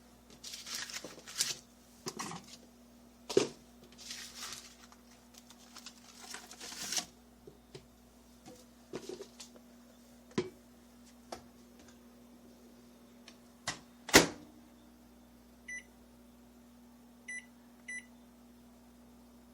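Kitchen handling noises, with rustling, knocks and one loud sharp clack, over a steady low hum. Near the end come three short electronic beeps from a microwave oven.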